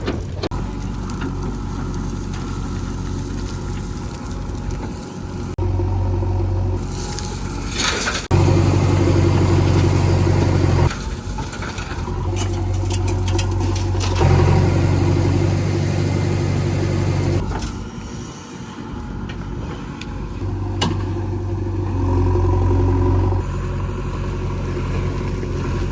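Heavy diesel engine of working machinery running steadily. Its loudness steps abruptly up and down several times, as when the engine is put under load and then eased off.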